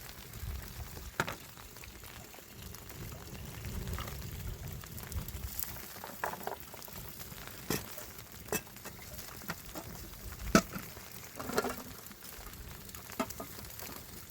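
Sizzling and crackling over a wood fire, with scattered sharp clicks and knocks; the loudest knock comes about ten and a half seconds in.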